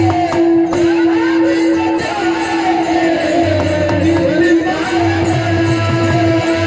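Marathi Warkari bhajan music: a melodic sung line over a steady held note, with rhythmic drum strokes.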